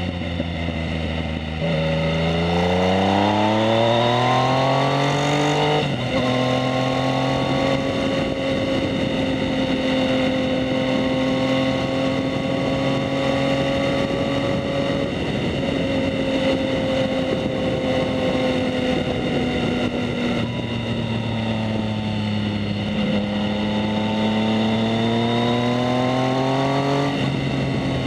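2019 Yamaha MT-09's 847 cc inline-three engine through a Two Brothers S1R Black Series full exhaust, accelerating with rising revs, shifting up about six seconds in and holding a steady cruise. Near the end it pulls up through the revs again and shifts up once more.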